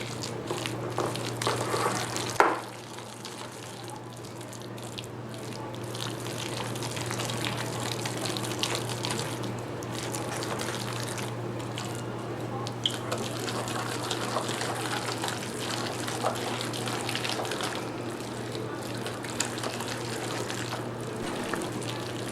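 Spoon stirring a thick, wet batter of semolina, curd and chopped onion and capsicum in a bowl: a steady squelching swish with scattered light clinks, the loudest one about two and a half seconds in, over a steady low hum.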